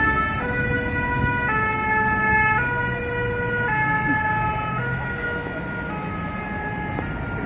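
Ambulance's two-tone siren switching between a high and a low note about once a second, in the French hi-lo pattern, over the low rumble of street traffic. It gets a little louder about two seconds in and eases off somewhat in the second half.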